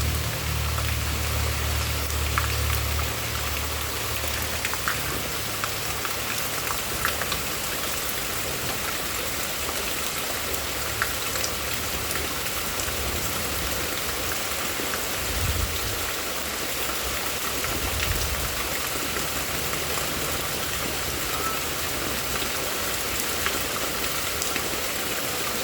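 Heavy rain falling steadily, with scattered sharp ticks of drops hitting nearby surfaces. A low rumble sits under it for the first few seconds and swells briefly twice later on.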